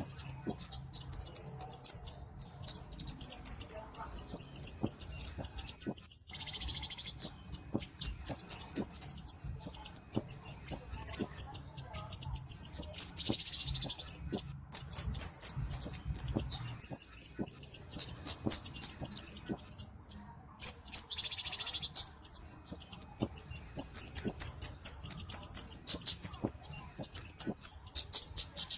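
Kemade or cabe-cabean, a flowerpecker, calling in long runs of very high, sharp, rapid chips. Three short buzzy rasps break the runs.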